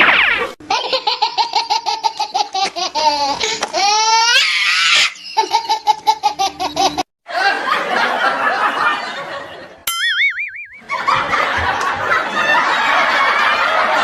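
Loud laughter: a rapid, pulsing belly laugh for the first several seconds, then a noisier stretch of laughter from several voices. About ten seconds in, the laughter is briefly broken by a short warbling tone.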